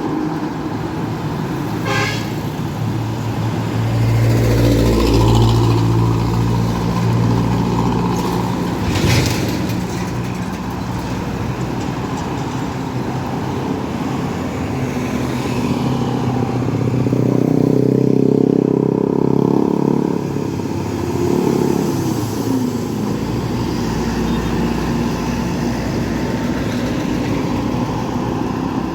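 Heavy road traffic passing close by, several truck and bus engines running as they go past, one falling in pitch as it passes about two-thirds of the way in. A vehicle horn sounds briefly near the middle.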